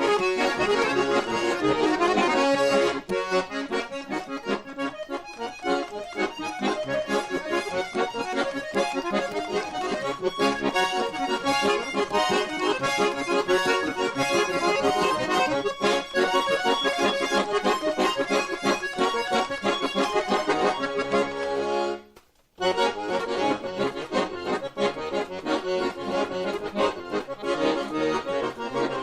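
Russian garmon (button accordion) playing a folk melody. The music breaks off for about half a second some 22 seconds in, then carries on.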